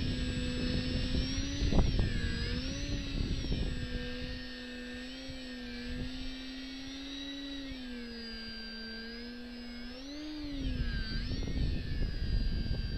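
Parkzone VisionAire RC plane's electric motor and propeller whining as it flies, the pitch rising and falling with throttle and passes. Gusty wind rumbles on the microphone at the start and again from about ten seconds in.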